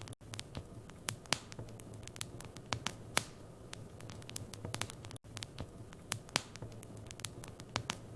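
Wood fire burning in a fireplace, crackling and popping irregularly several times a second over a low steady hum.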